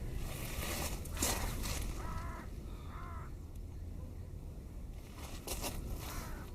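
A crow cawing twice, two short calls about two and three seconds in, over a steady low rumble, with bursts of hiss near the start and near the end.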